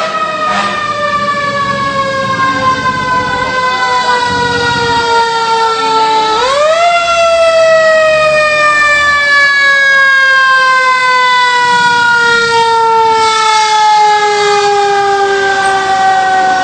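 Fire engine siren wailing: a single loud tone that slowly falls in pitch, swoops back up about six seconds in, then winds down slowly again.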